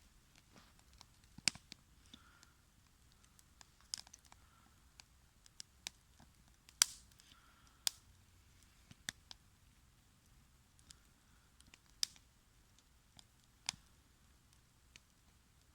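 Wood campfire crackling: irregular sharp pops and snaps, the loudest about seven seconds in, over a faint hiss.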